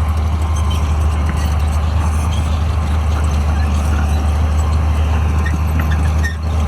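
Bulldozer's diesel engine running steadily under load with a deep, constant drone. The sound dips briefly just before the end.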